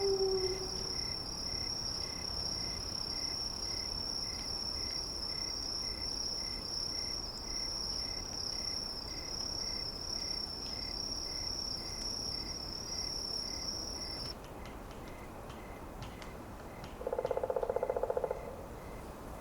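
Steady, high-pitched insect-like trill that cuts off abruptly about fourteen seconds in. At the very start the tail of a long falling howl fades out, and near the end there is a short, low buzzy call of about a second and a half.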